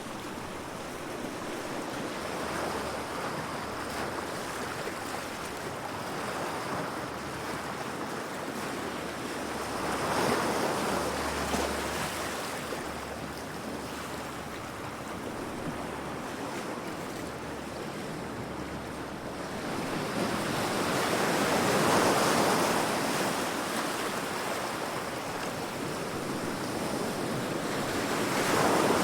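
Heavy ocean waves crashing against rocks: a steady wash of surf that swells with a wave about ten seconds in, a bigger one around twenty seconds, and another near the end.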